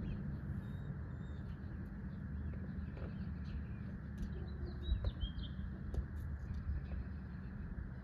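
Small birds chirping in short high calls, busiest about halfway through, over a steady low background rumble, with a couple of sharp clicks near the middle.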